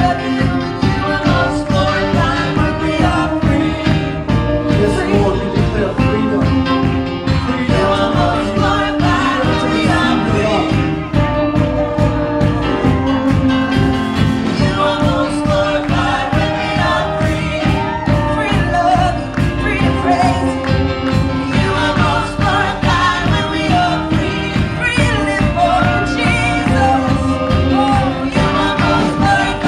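Live Christian praise and worship music: singers over a band with a steady beat.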